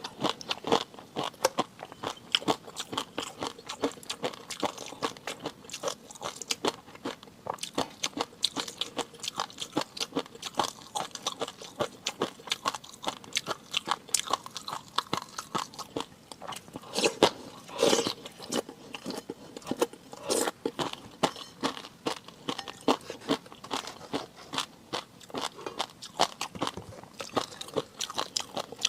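Close-miked eating: a steady run of crunching and chewing, dense and clicky, with a louder cluster of crunches a little past the middle.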